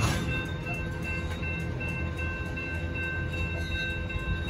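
Freight train tank cars rolling through a grade crossing: a steady low rumble of wheels on rail, with a sharp clank right at the start. The crossing signal's bell rings steadily over it.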